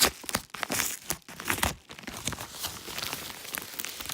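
A package being opened by hand: packaging crinkling and tearing in irregular bursts, loudest in the first couple of seconds.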